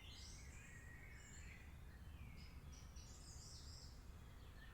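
Faint rainforest ambience: several birds calling and twittering, with short high chirps and warbles, over a steady low rumble.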